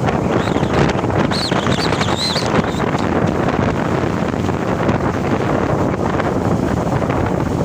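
Steady wind buffeting the microphone over the running noise of a moving truck. A few faint high squeaks come about a second and a half in.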